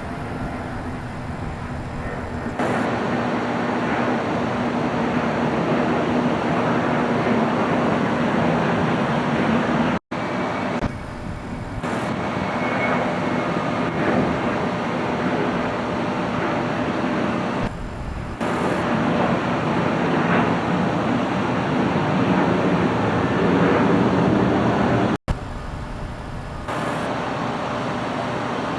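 Steady jet airliner engine noise, broken by two abrupt cuts about ten and twenty-five seconds in.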